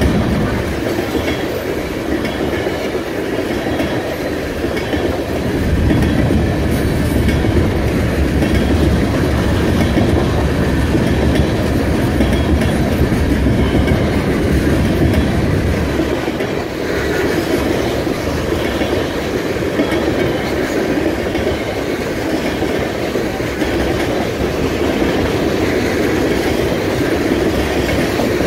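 A train rolling past close by, a steady rumble of steel wheels on the rails that runs without a break. The low rumble is heavier from about five seconds in until about sixteen seconds in.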